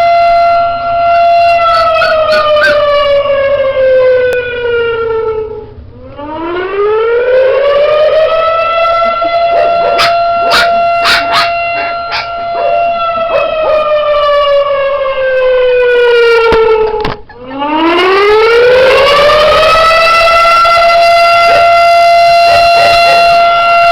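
Civil-defence-style wailing siren: a loud tone holds a steady pitch, slides down, breaks off, then climbs back up and holds again. It does this twice. A few sharp clicks fall in the first few seconds and again near the middle.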